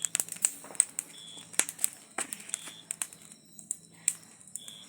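Wood bonfire crackling, with irregular sharp pops and snaps. A short, high, beep-like chirp repeats several times, about every second and a half.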